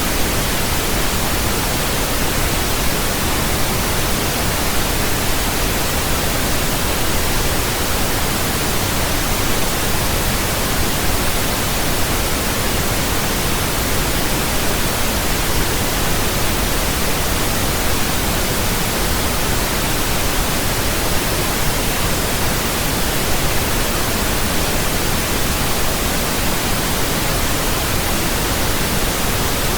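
Steady pink noise: an even, unbroken hiss across the whole range, fuller in the low end than white noise.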